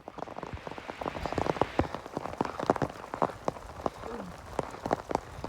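Rain falling, with many separate drops striking close by in an irregular, dense stream. It starts abruptly.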